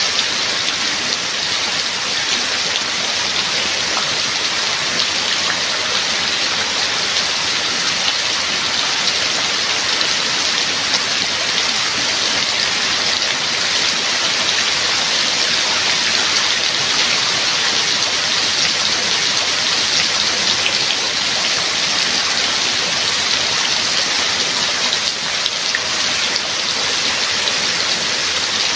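Heavy rain falling steadily, an even hiss made of countless drop patters, with no thunder.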